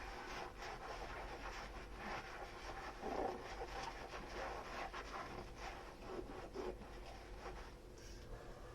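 Dishes being scrubbed with a foamy sponge: a run of short rubbing, squishing strokes, strongest about three seconds in and thinning near the end.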